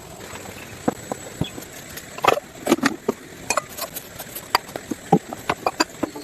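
Irregular light clicks and taps, several a second from about two seconds in, over a faint steady hiss.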